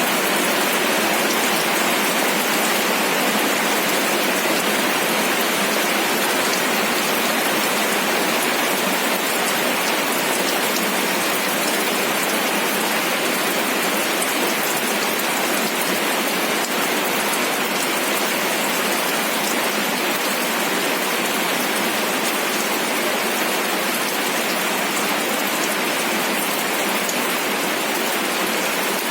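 Steady rain falling, an even hiss of many fine drops hitting a surface, with no thunder.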